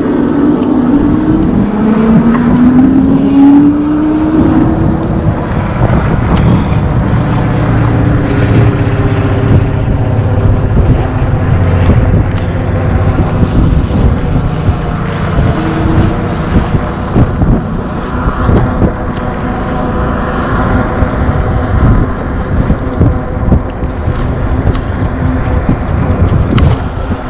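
Continuous riding noise from an e-bike ride: wind rushing over the microphone, with a tone that rises in pitch about two seconds in.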